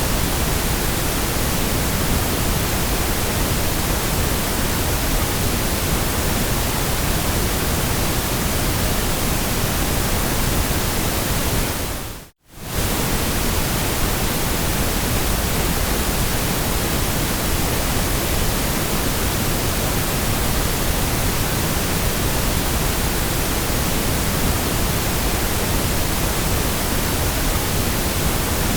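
Steady generated white noise, an even hiss with no tones or rhythm. About twelve seconds in it fades out to near silence and comes straight back within about half a second.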